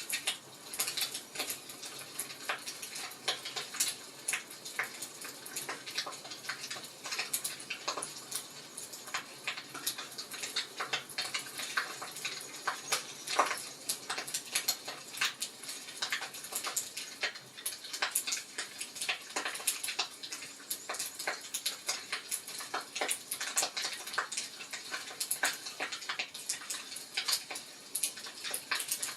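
Wood fire crackling in a fireplace, with quick irregular pops and snaps over a steady hiss.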